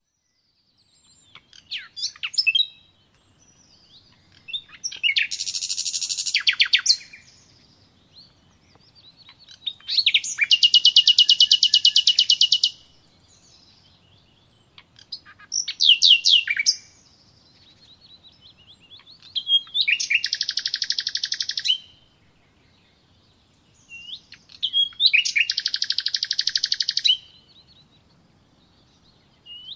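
A songbird singing in separate phrases, six in all, each a second or three long and made of fast, high trills and chirps, with short pauses between phrases.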